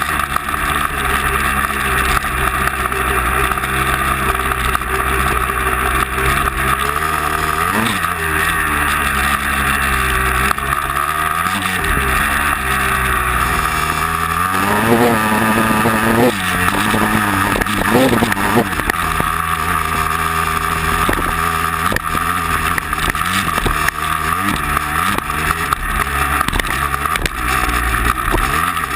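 Vehicle engine running steadily, revving up and down several times, with the biggest climbs about halfway through.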